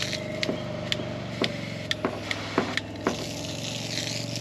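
Truck-mounted 12-volt water shower pump humming steadily while the shower's spray nozzle clicks through its settings, about two sharp clicks a second. The hiss of the water spray drops away at first and comes back near the end.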